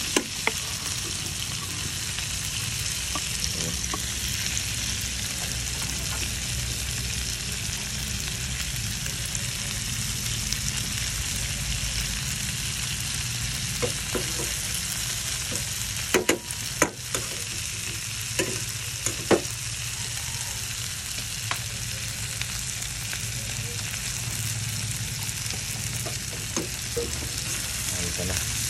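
Shell-on shrimp sizzling steadily in hot oil in a nonstick frying pan as they are stirred and turned with a metal slotted spatula. A few sharp clicks of the spatula against the pan come a little past halfway.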